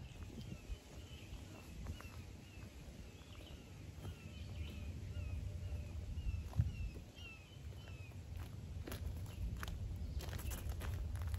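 A bird calling over and over with short falling chirps, about two or three a second, which stop about two-thirds of the way through. Footsteps come in toward the end, over a steady low rumble.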